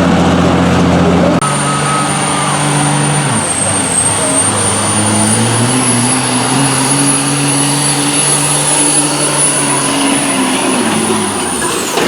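Outlaw-class turbocharged diesel pulling truck running at high revs under load, with a high turbo whistle over the engine. The engine's pitch dips and climbs back a few seconds in, and the whistle falls away near the end as the truck comes off the throttle.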